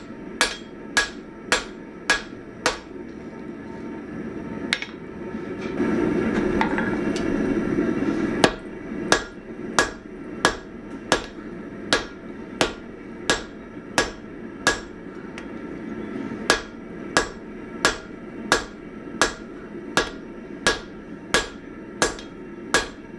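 Hammer blows on a hot 1045 steel axe blank on an anvil, each strike ringing, at about one and a half strikes a second, working out fish mouthing in the end of the blank. The strikes stop for a few seconds about five seconds in, when a louder steady rushing noise is heard for about two seconds, then resume.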